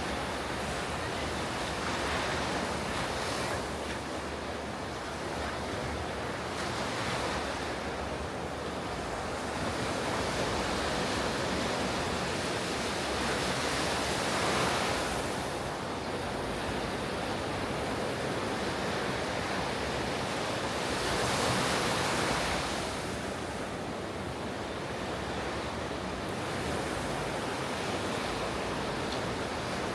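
Ocean surf breaking on a beach: a steady wash of waves swelling and easing every several seconds, with the loudest breakers about a third and two-thirds of the way in. Light wind noise on the microphone.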